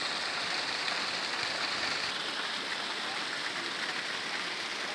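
Steady rush of hot-spring waterfalls splashing into riverside pools.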